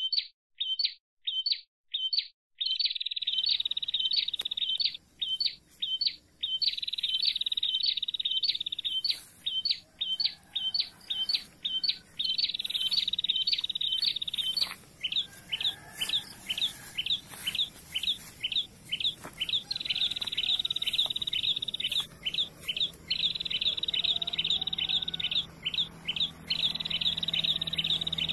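Prinia (prenjak) calling: long trains of rapid, sharp, repeated chirps that go on almost without pause.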